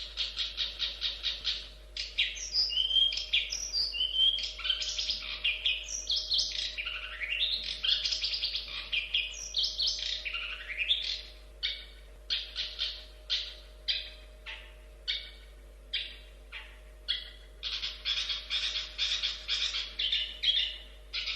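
Long-tailed shrike (cendet) singing: fast chattering runs of high repeated notes and varied sweeping phrases, then separate falling notes about two a second, and another fast run near the end. A faint steady hum lies underneath.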